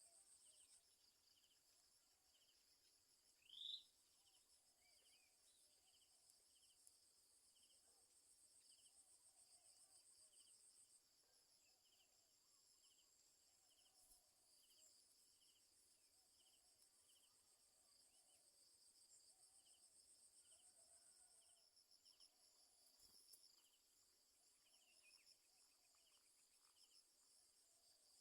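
Faint, steady chirring of insects such as crickets, with a softer repeated chirp about every two-thirds of a second. A single short rising whistle sounds about four seconds in.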